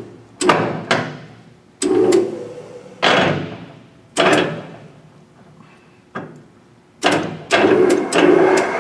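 Metal speed-change levers on a Yang engine lathe's headstock being shifted, giving about ten sharp clunks, each with a short ringing tail.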